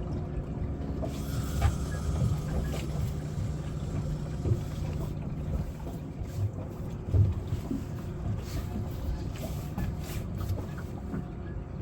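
A boat's motor hums steadily, with scattered knocks on the boat and a few light clicks.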